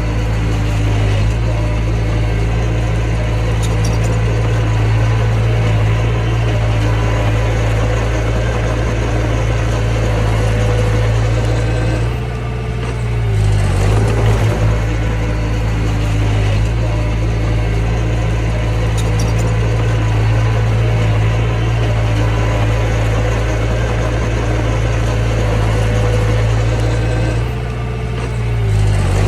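Mini bulldozer's diesel engine running steadily under work. Twice, about twelve seconds in and again near the end, it drops briefly in pitch and loudness, then picks up again.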